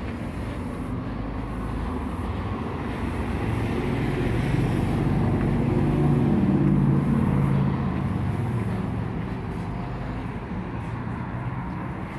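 A motor vehicle's engine passing by in street traffic, growing louder to a peak a little past the middle and then fading away.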